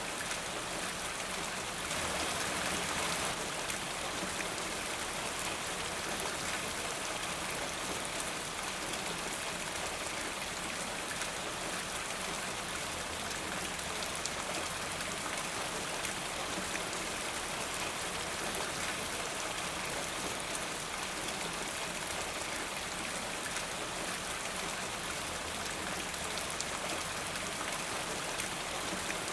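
Steady rain falling, a dense even hiss with fine drop ticks, slightly heavier for a moment about two seconds in.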